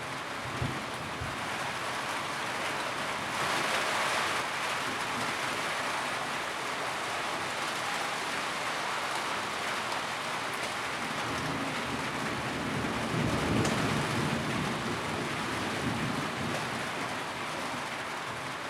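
Steady rain drumming on a tin roof, swelling briefly a few seconds in, with a low rumble rising under it about two-thirds of the way through.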